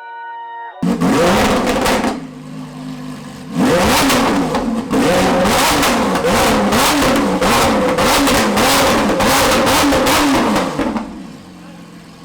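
Lamborghini Aventador SVJ's V12 starting about a second in with a loud flare, settling briefly to idle, then revved in quick repeated blips for about seven seconds before dropping back to idle near the end.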